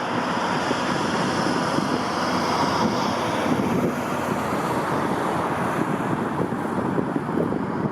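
Jet airliner's engines, a steady rushing noise with a faint high whine that fades after about three seconds, with wind buffeting the microphone.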